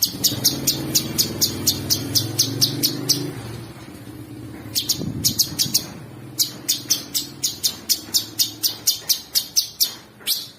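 Cucak sungkok singing: runs of rapid, sharp high chips, about four or five a second, broken by two short pauses. A low steady hum sits beneath the first three seconds.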